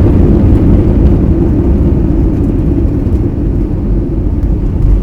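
Loud low rumble of an Airbus A320 decelerating on the runway after touchdown, heard inside the cabin: engine roar and wheel rumble slowly dying away as the aircraft slows.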